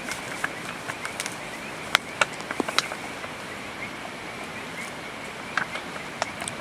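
Wet campsite ambience: a steady hiss of rain with a continuous high, rapidly pulsing chirr, and scattered sharp ticks and drips, a cluster of them about two to three seconds in.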